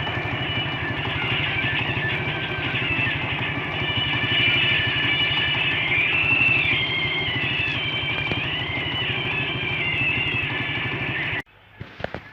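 Tractor engine running steadily with an even pulse, a high wavering tone riding on top; the sound cuts off abruptly near the end.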